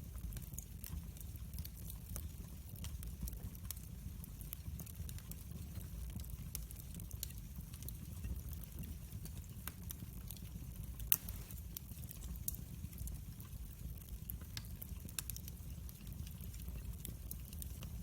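Burning wood fire crackling, with many small irregular pops over a low steady rumble and one sharper pop about eleven seconds in.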